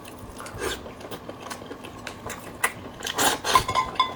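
Close-miked eating: chewing with scattered light clicks of utensils on a bowl, busiest about three seconds in, where a few short clinks ring.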